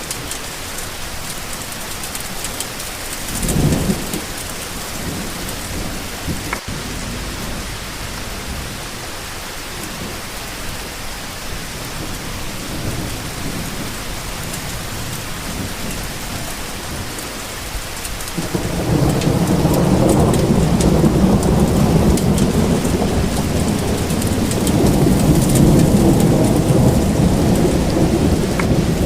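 Steady rain falling, with a short low rumble of thunder about four seconds in, then a long, louder roll of thunder starting about two-thirds of the way through and still going at the end.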